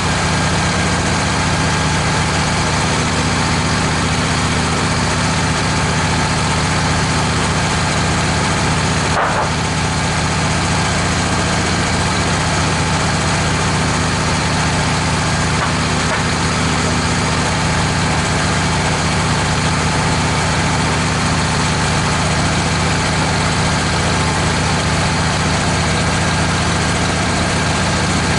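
Wood-Mizer LT15 portable band sawmill running steadily as it saws a red oak log. A brief sharp knock about nine seconds in.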